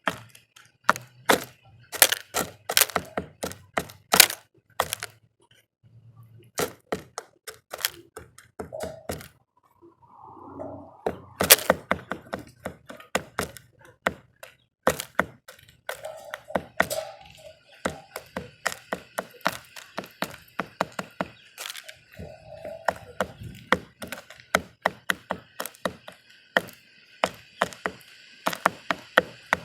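Birds pecking at seed on a bird feeder: a long run of sharp, irregular taps and cracks, with a few short calls in between. From about halfway a faint, steady, high background sound joins in.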